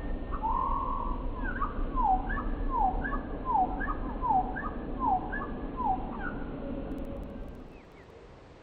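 A bird's song slowed down: a run of about seven repeated phrases, each a short high note followed by a downward-falling whistled note, over a steady low background rumble that fades away near the end.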